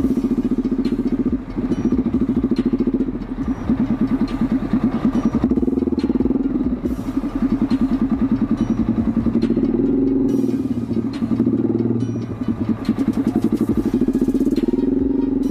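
Z200S motorcycle engine running under way, its exhaust note rising and falling several times with the throttle, with brief dips in loudness.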